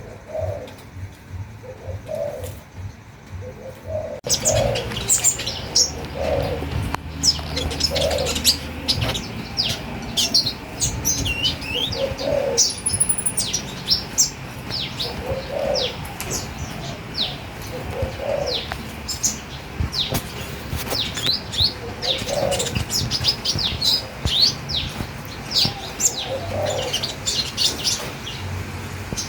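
Birds singing: a low call repeating about every two to three seconds, and from about four seconds in, many quick high chirps over it.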